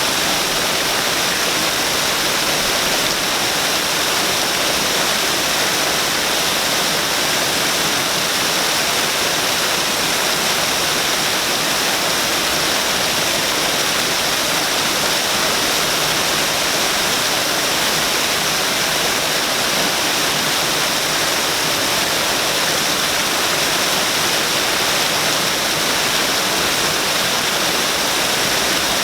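Waterfall: a steady rush of falling water, even and unbroken, with a bright, hissing character.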